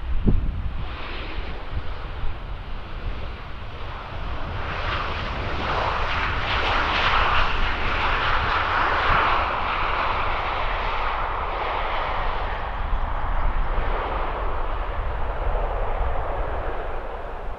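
Turbofan jet engines of a landing Boeing 737-800 (CFM56) passing by: a rushing jet roar that swells about four seconds in, is loudest mid-way, then slowly fades.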